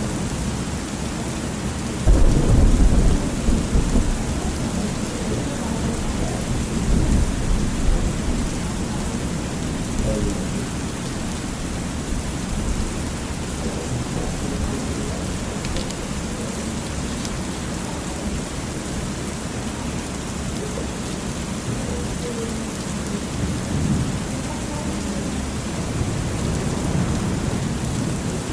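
Thunderstorm ambience: steady rain with a loud low thunder rumble about two seconds in, then fainter rolls of thunder later on.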